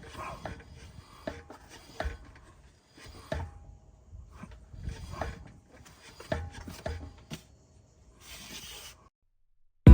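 Irregular light knocks and rubbing creaks from the lifted kei van's suspension, the abnormal noise it has started making. The sound stops about a second before the end.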